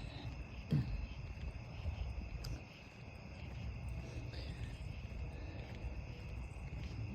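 Crickets chirring steadily in a constant high-pitched drone, over a low rumbling noise. About a second in, a brief low sound falls in pitch.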